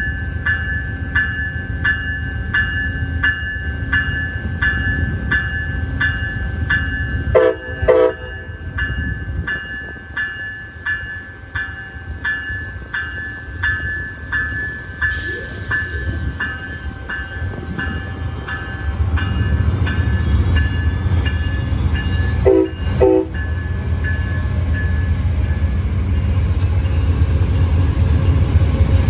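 Grade-crossing warning bell ringing about twice a second as a train led by Amtrak P42 diesel locomotives approaches. A pair of short horn blasts sounds about 7 seconds in and again about 23 seconds in. The locomotives' low rumble grows louder over the last ten seconds as they pass.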